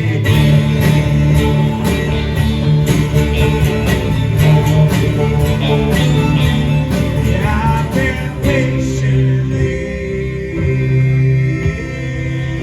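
A live band playing an instrumental passage between sung lines: drums keep a steady beat under guitar and other sustained instruments, and the drum hits thin out about nine seconds in, leaving held chords.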